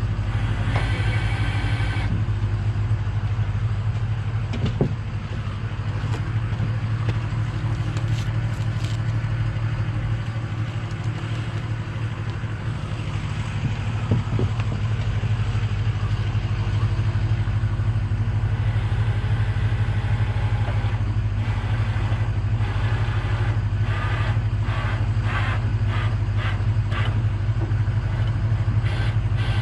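Truck engine idling steadily throughout, with scattered knocks, and near the end a run of short scraping strokes about two a second.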